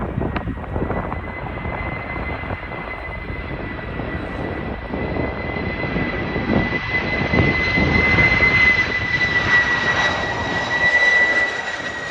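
Boeing 747-400F on approach, its four turbofan engines giving a steady high whine over a rushing rumble. It grows louder over the first two-thirds, and the whine sinks slightly in pitch near the end.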